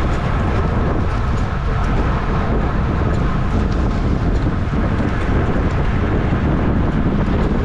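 Steady wind rush buffeting the microphone of a camera riding along in a bicycle race at speed, with faint ticks now and then.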